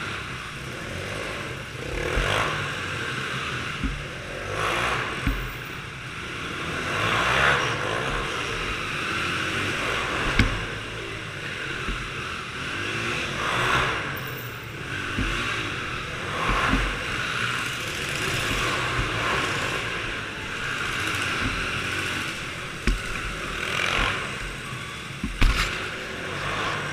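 Small off-road vehicle engines running, their sound swelling and fading every few seconds as they rev and pass, with a few sharp knocks.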